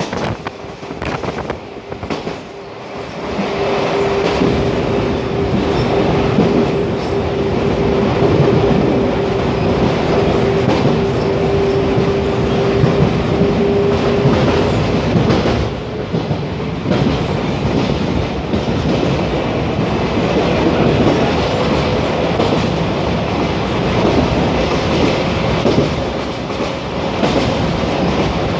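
Toshiba electric multiple unit running along the line, heard on board: continuous wheel-and-rail running noise that gets louder about three seconds in. A steady hum holds through the first half, and a slightly higher one comes in later.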